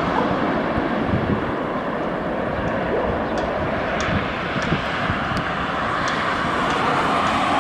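Airbus A321's CFM56 jet engines on landing, heard as a steady, loud rushing noise that eases a little after the aircraft has passed. Faint short high ticks sound here and there over it.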